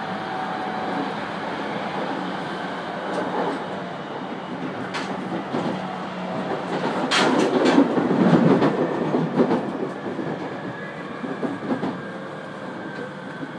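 Running noise of a 701 series electric train heard from inside the carriage: a steady rumble of wheels on rails. It grows louder about halfway through, with a few sharp clacks, then eases off.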